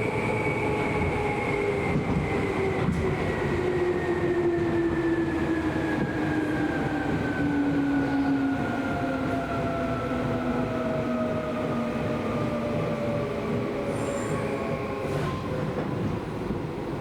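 Seibu New 2000 series electric train running on the rails, its traction motor and gear whine falling steadily in pitch as the train slows, over the rumble of the wheels. A brief high squeak comes about 14 seconds in.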